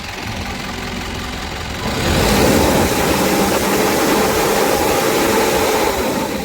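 Truck engine idling, then running louder from about two seconds in and holding steady.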